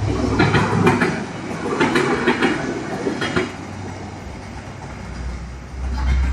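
Train rolling past, its wheels clacking over rail joints in quick groups of beats, over a low steady rumble. The clacking thins out after about three seconds, and a deep rumble swells near the end.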